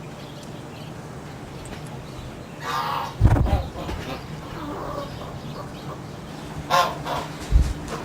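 Geese honking: one call about two and a half seconds in and another near the end, with low thumps beside them, the loudest just after three seconds.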